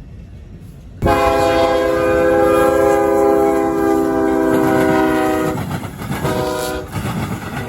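Amtrak locomotive's multi-chime air horn sounding a salute: one long blast of a chord starting about a second in, then a short blast and the start of another near the end. The train's rumble and wheel clatter run underneath.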